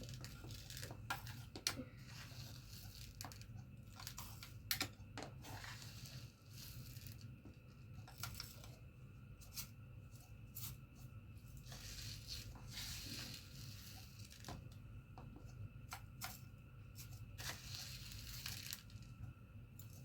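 Faint rustling and crinkling from hands at work, with scattered small clicks and taps, and two longer stretches of rustling about twelve and eighteen seconds in.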